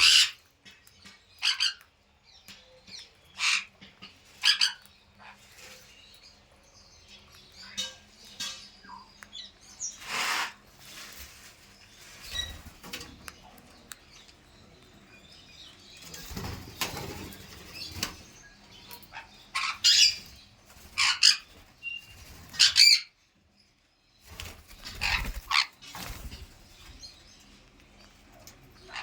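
Pet parrot flapping its wings in spells, with about ten short, sharp high-pitched calls scattered through.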